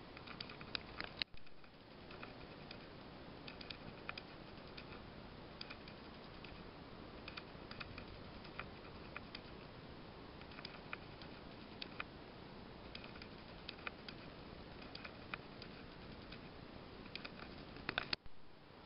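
Light, irregular mechanical clicking and ticking over a steady hiss, cutting out sharply twice: once shortly after the start and once near the end.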